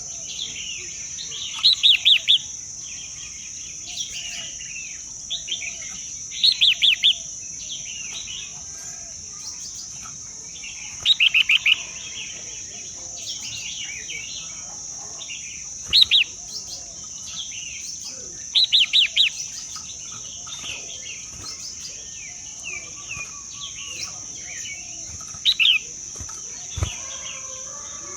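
Birds calling in short clusters of quick, high chirps, a cluster every four to five seconds, over a steady high-pitched insect drone.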